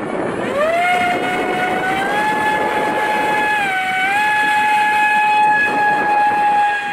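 Electric motor and propeller of a Spiderwing RC flying wing run up to launch throttle: a high whine that rises about half a second in, holds steady, dips briefly around four seconds in and comes back up, then drops at the very end.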